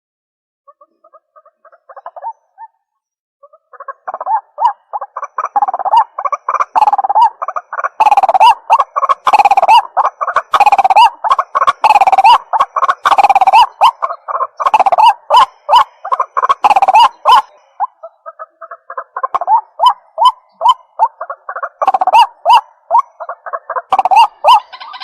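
White-breasted waterhen calling: a long run of rapid, repeated calls. They start faint and sparse, become loud and continuous, ease off briefly about two-thirds of the way through, then pick up again.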